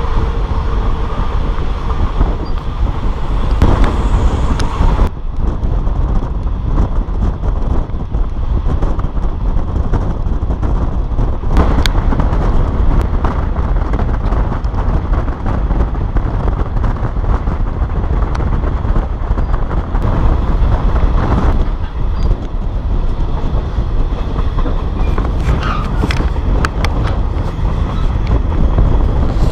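Passenger train running at speed, heard from a coach window: a steady rumble of wheels on the rails with rushing air.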